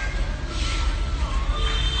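Small songbirds calling faintly, a few thin whistled notes and short chirps, over a steady low rumble and hiss in the recording.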